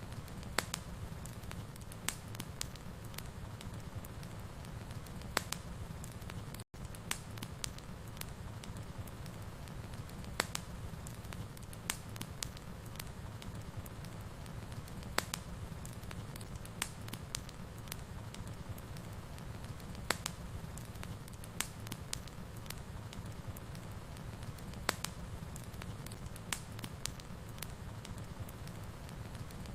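Fire burning in a fireplace: a steady low rumble of flames with sharp crackles and pops at irregular intervals. The sound cuts out for a split second about seven seconds in.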